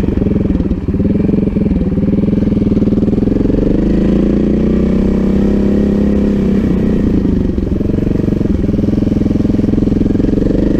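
Montesa Cota 4RT trials bike's single-cylinder four-stroke engine running at low speed under the rider, its note dipping and picking up again as the throttle is eased off and opened, about a second in and again past the middle.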